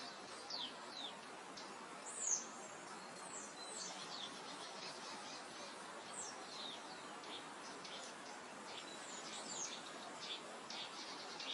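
Wild birds chirping over a steady soft breeze: many short, high calls that slide downward in pitch. The loudest call comes about two seconds in, and the chirps grow quicker and denser near the end.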